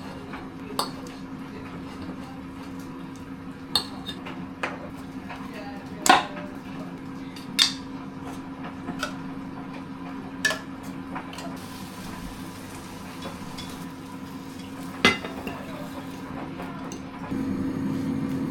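Kitchenware clinking and knocking: about eight scattered clinks of utensils against pans and plates while food is prepared, over a steady low hum that gets louder near the end.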